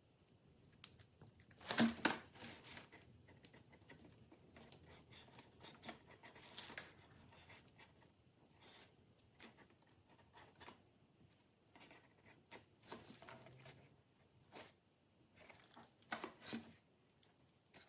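Faint, irregular rustling, tapping and clicking of objects being handled, with louder bursts about two seconds in and again near the end.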